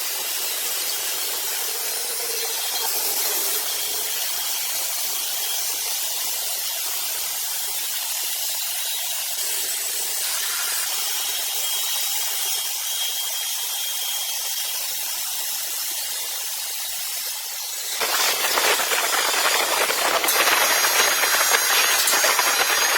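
Sawmill saw running with a steady high hiss. About three-quarters of the way through, the sound turns abruptly louder and coarser as the blade cuts into the rosewood log.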